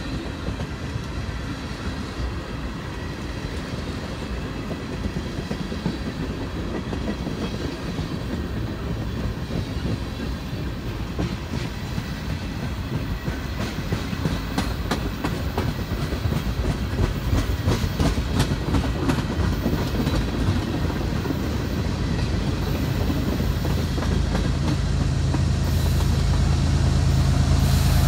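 Train rolling past, its steel wheels clicking over rail joints in an even run. It grows louder throughout, and the drone of a diesel locomotive builds strongly near the end.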